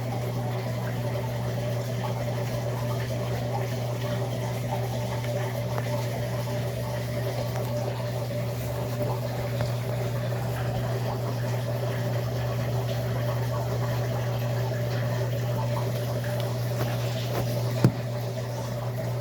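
Electrolux LAC13 washing machine's drain pump running steadily with a low hum while water gurgles out during the drain stage. A single sharp click near the end.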